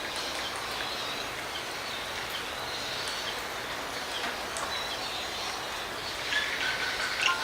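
Steady rain hissing, with scattered high bird chirps. About six seconds in, a louder bird call sounds for a little over a second.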